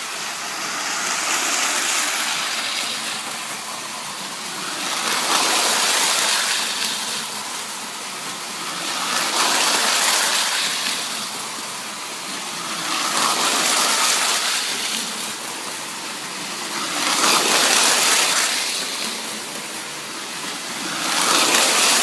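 Prewar Lionel Flying Yankee O-gauge streamliner running laps on FasTrack, its motor and wheels making a steady rushing rumble that swells each time the train passes close, about every four seconds.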